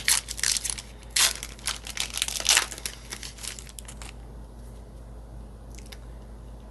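Yu-Gi-Oh! booster pack's foil wrapper being torn open and crinkled by hand in a quick run of crackling rustles that stops about four seconds in.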